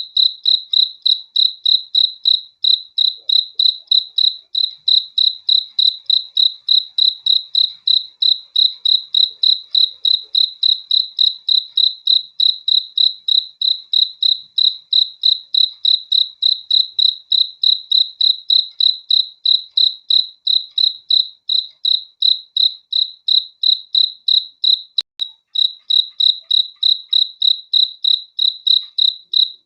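A cricket chirping steadily at a single high pitch, about three chirps a second in an even rhythm.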